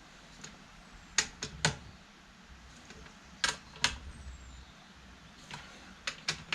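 Sharp metallic clicks and clinks from hand tools as bolts on a tractor hydraulic pump are tightened, in three small clusters of two or three clicks each.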